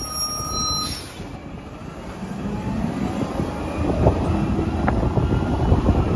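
Peterbilt 320 garbage truck's engine running, getting louder from about two seconds in, with one high beep lasting about a second near the start.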